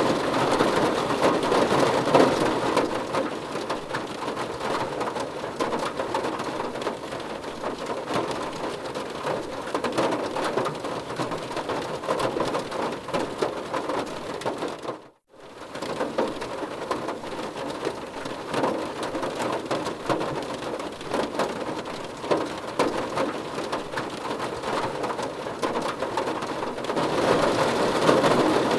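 Steady heavy rain falling, swelling louder at the start and again near the end, with a brief cut to near silence about halfway through.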